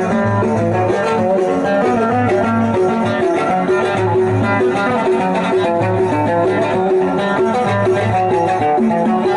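Instrumental music led by a plucked string instrument playing a quick melody of short notes, over a repeating low bass pulse.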